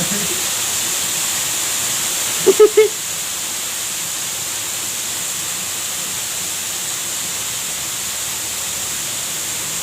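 Steady rushing of a small waterfall. About two and a half seconds in comes a brief pitched call in three quick pulses, louder than the water.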